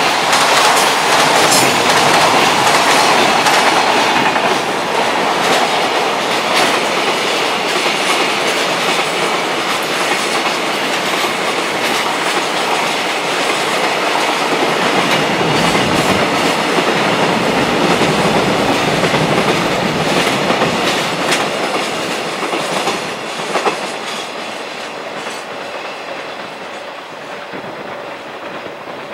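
Freight train passing at speed, its wagon wheels clattering over the rail joints. The sound dies down over the last several seconds as the train goes by.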